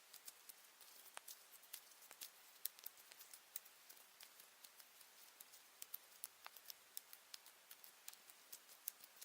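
Near silence, with faint, irregular light clicks and taps of hands working playdough, kneading yellow and red together into orange.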